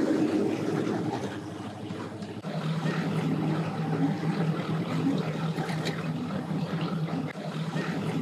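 Engines idling with a steady low hum; about two and a half seconds in the hum drops to a lower, steadier pitch.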